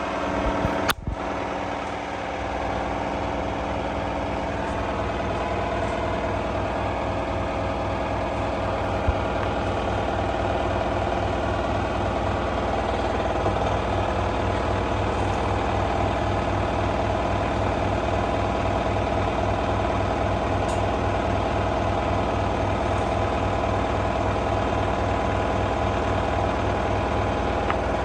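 LG F1222TD direct-drive washing machine on its full-speed final spin: a steady drone with a rapid low throbbing from the drum and a steady motor whine. There is one sharp knock about a second in.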